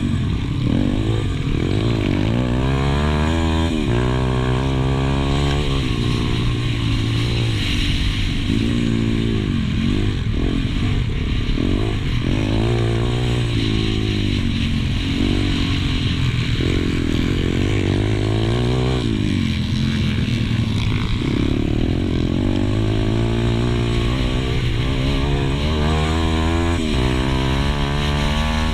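A racing pit bike's single-cylinder engine, heard from on board, revving hard and falling back again and again. The pitch climbs, drops sharply at gear changes and sags where the throttle is shut for corners.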